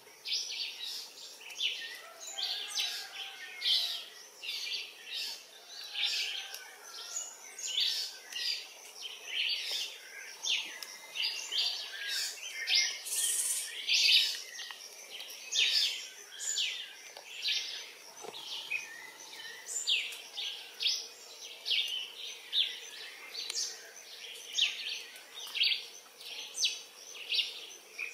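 Birds chirping in a continuous run of short, high calls, a few every second.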